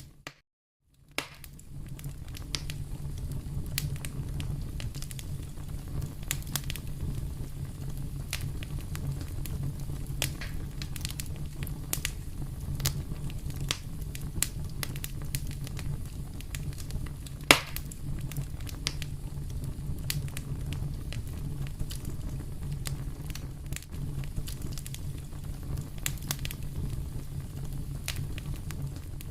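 Wood fire in a fireplace crackling, with frequent small sharp pops over a steady low rumble. One much louder pop comes about halfway through. The sound drops out briefly at the very start.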